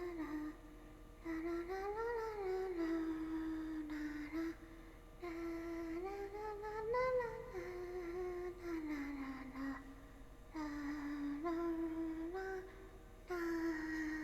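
A young woman humming a meandering tune in phrases a few seconds long, the pitch held level and then swooping up and down, with short breaks between phrases.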